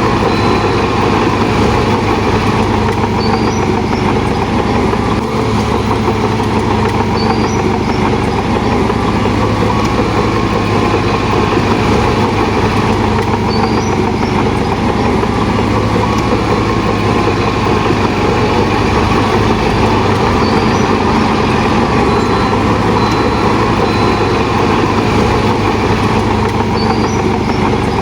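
A bulldozer's heavy diesel engine running steadily, with faint short high chirps every few seconds.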